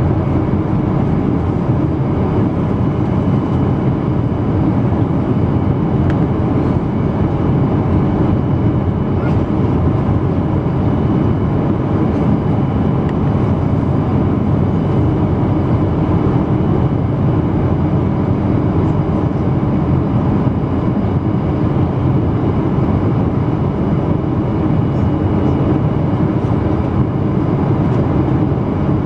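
Steady cabin noise inside a Boeing 777-200 airliner: a constant low rush of engine and airflow noise, with faint steady whining tones above it, holding level throughout.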